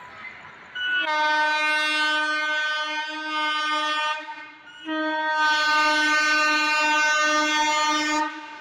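Indian Railways locomotive horn sounding two long steady blasts with a short gap between them.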